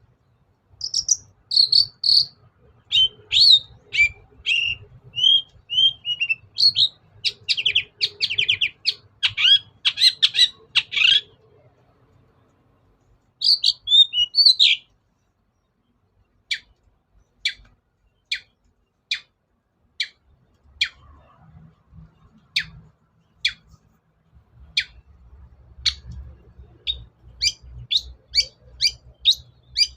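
Long-tailed shrike (cendet) singing: about ten seconds of fast, varied chattering and whistled phrases, a short burst after a pause, then single sharp down-slurred notes repeated about once a second, coming faster near the end.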